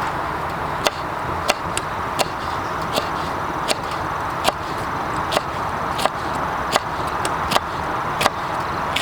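Knife chopping on a cutting board in steady, even strokes, about one sharp knock every three-quarters of a second, over a steady hiss.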